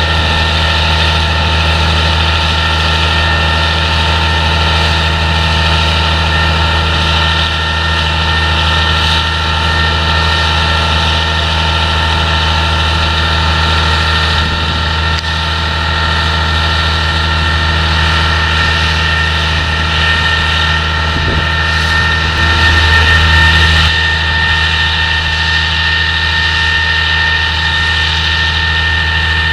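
Heavy farm diesel machinery running steadily during a potato harvest, a constant engine drone with steady mechanical whines above it. It swells briefly about 23 seconds in.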